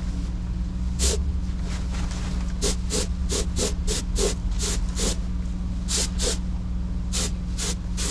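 Paint spray gun hissing in about fifteen short trigger bursts as base coat is sprayed, most of them in quick succession from a few seconds in, over a steady low hum.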